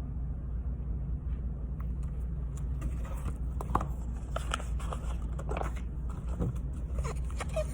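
A steady low hum, with a scattering of small clicks and soft rustling sounds over the second half.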